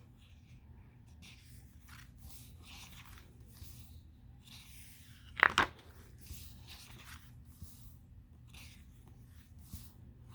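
Paper rustling as sticker-book pages are handled and turned, with one loud, sharp crackle of paper about halfway through.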